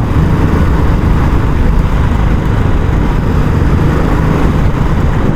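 Royal Enfield Classic 350's single-cylinder engine running steadily through its stock exhaust while the bike is ridden, with its low thump.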